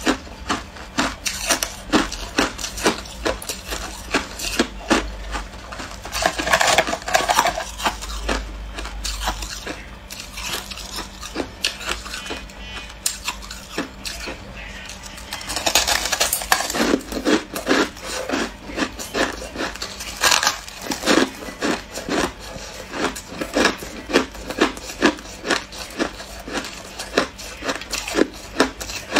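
Hard clear ice being bitten and crunched between the teeth: a rapid run of sharp cracks, with two heavier bouts of crunching, about a quarter of the way in and just past halfway.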